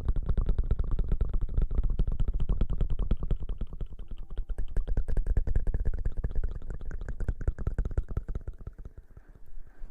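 Fingers rapidly scratching and rubbing right on the microphone, ASMR-style mock hair washing: a dense crackle with a heavy low rumble. It thins out and quietens about eight seconds in.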